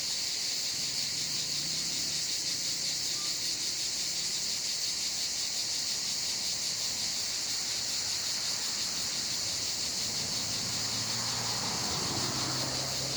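Cicadas singing in a steady, loud, high-pitched chorus.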